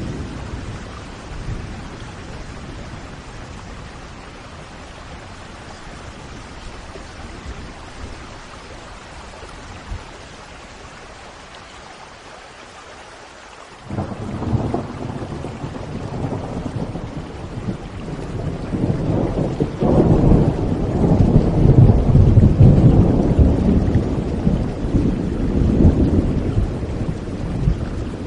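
Steady rain in a thunderstorm. About halfway through, a long roll of thunder breaks in suddenly, builds to a deep rumble, then eases off near the end.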